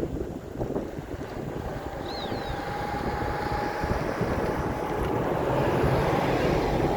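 Wind buffeting the microphone, an uneven rumble that builds louder toward the end. A short bird chirp sounds about two seconds in.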